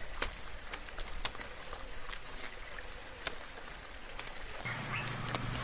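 Steady rain falling, with many individual drops ticking sharply on nearby surfaces. A low steady hum comes in near the end.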